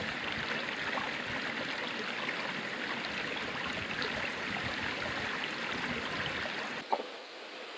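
River water flowing steadily, with one short knock near the end.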